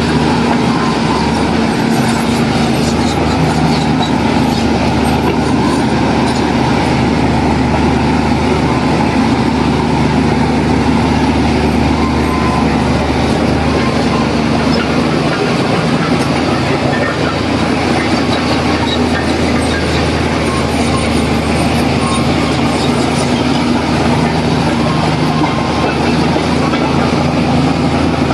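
Heavy diesel engine of earthmoving machinery running steadily under load, with faint metallic clicking over it.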